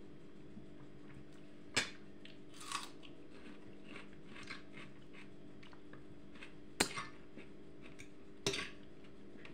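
A person chewing and crunching food close to the microphone, with three sharp clicks about 2, 7 and 8.5 seconds in, over a steady low hum.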